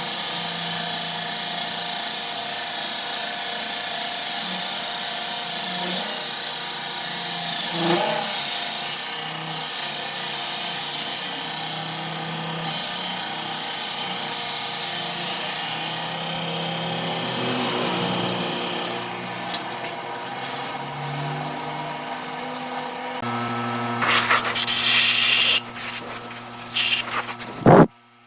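Handheld power tool running steadily against wood. Near the end it comes in several louder bursts, then stops abruptly.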